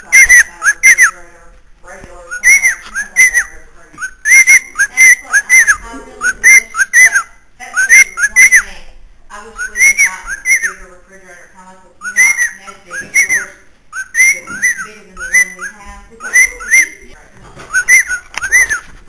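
Pet bird whistling: short notes that rise and fall, in groups of two or three, repeated over and over with brief pauses.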